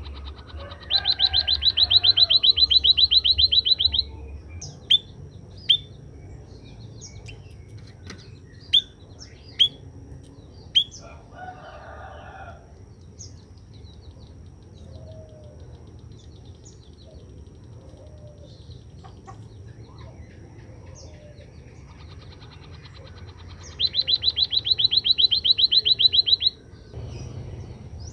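Small caged songbird, the emprit kaji (white-headed munia), calling in two loud bursts of a fast, evenly pulsed high trill, one near the start and one near the end. Sharp single high chirps come between the bursts, with a short lower call in the middle.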